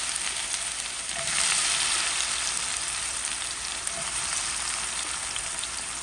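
Parboiled cassava pieces sizzling steadily in hot frying oil, a dense hiss that swells a little about a second in.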